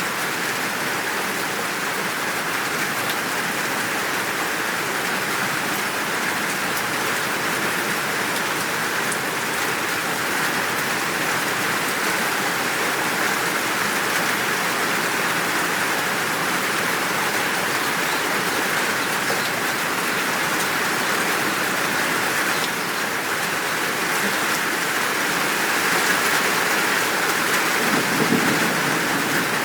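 Steady heavy rain falling as an even hiss, with a low rumble of thunder coming in near the end.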